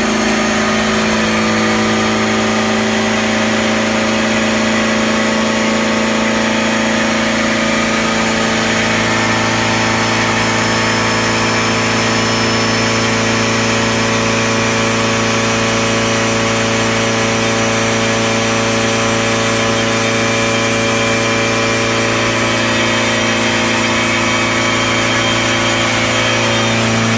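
Turbocharged Honda K20 four-cylinder engine running at a steady speed, a constant unbroken drone with no revving.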